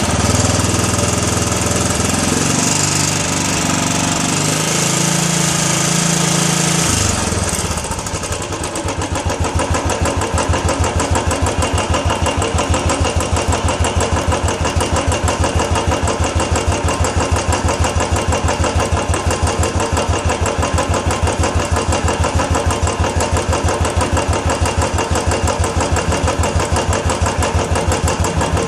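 Royal Enfield Classic 350 single-cylinder engine running at raised revs that step up and down, then dropping back about seven seconds in to a steady idle with an even beat.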